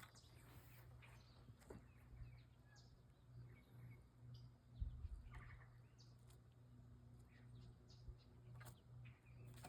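Near silence outdoors: faint, scattered bird chirps over a steady low hum, with a single low thump about five seconds in.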